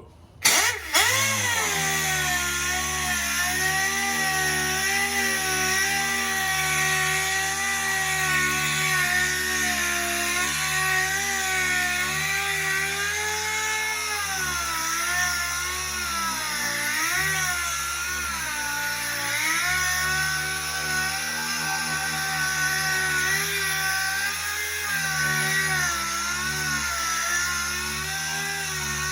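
Power sander starting up about half a second in and then running steadily on automotive body panel, knocking off primer and digging into the paint; its whine dips and wavers in pitch as it is pressed against the panel.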